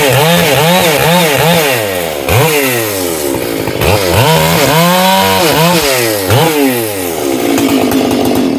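Stihl MS 461 two-stroke chainsaw at full throttle, cutting into firewood with a sharp chain. Its engine pitch dips and recovers over and over as the chain bites, and the saw drops off right at the end.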